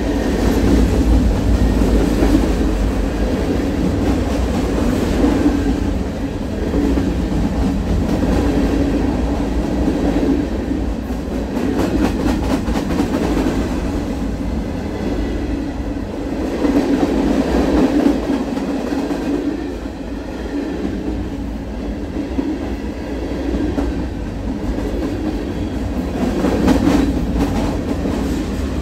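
A freight train of tank cars and covered hoppers passing close by on the next track: a steady, loud rumble, with stretches of clicking and clatter from wheels going over the rail joints.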